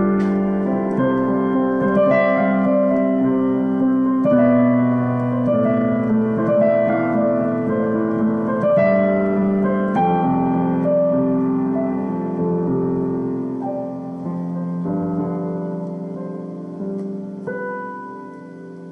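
Solo piano improvising slow, sustained chords that change every couple of seconds, growing gradually softer toward the end, picked up by a mobile phone's microphone.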